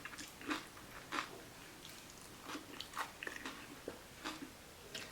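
Close-up chewing and crunching of a taco loaded with salad, short crackly crunches about twice a second.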